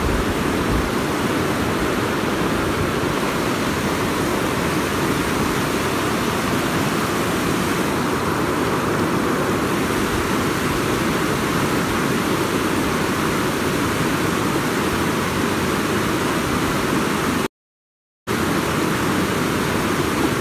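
Steady rush of a fast-flowing river running high after heavy rain, with a brief total dropout about three-quarters of the way through.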